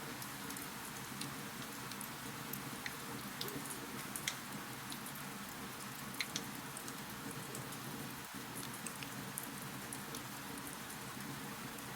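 Wood fire crackling in a fireplace: scattered sharp pops and snaps over a steady hiss, the loudest pop about four seconds in.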